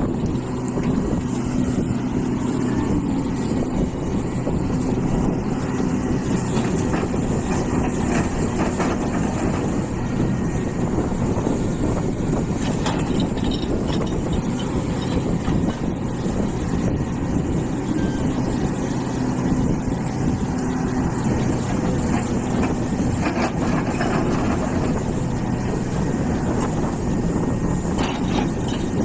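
Hitachi EX450 excavator's diesel engine running steadily with an even hum, with a few faint knocks along the way.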